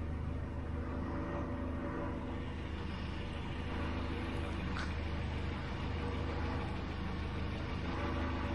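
Vehicle engine running steadily with a constant low hum; the vehicle is described as a loud mess. A faint short tick sounds about halfway through.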